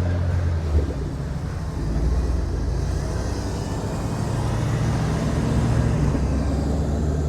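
Engines of cars driving slowly past, Ford Mustangs among them: a steady low rumble that swells a little twice.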